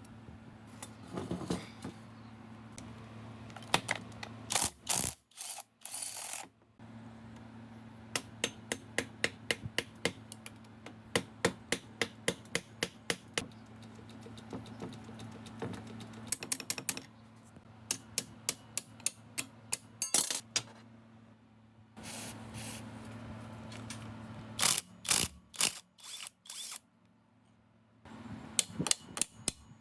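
Hand tool working on engine parts: runs of sharp, evenly spaced clicks, about three a second, broken by short pauses, over a steady low hum.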